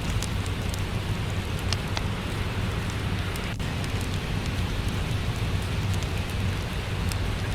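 Steady rainfall as a constant hiss and low rumble, with the sharp little pops and crackles of a wood fire scattered irregularly over it.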